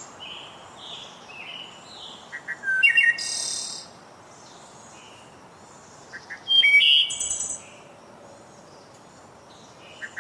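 Songbird singing: two short bursts of quick chirps and trills, about two seconds and six and a half seconds in, with fainter chirps between, over a steady low hiss.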